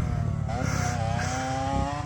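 Small motorcycle engine running and revving. Its pitch dips briefly about half a second in, then holds steady.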